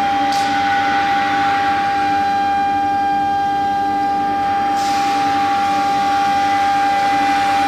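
Air-cooled 3.5 kW CNC router spindle running with a steady high whine, a short hiss flaring up about five seconds in.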